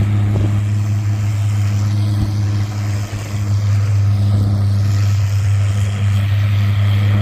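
An engine running at a steady idle, its low hum unchanging with no revving.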